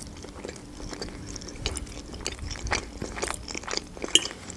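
Close-up chewing of soft meat-filled dumplings, a run of short wet mouth clicks, with a sharp clink of a metal fork against the plate near the end.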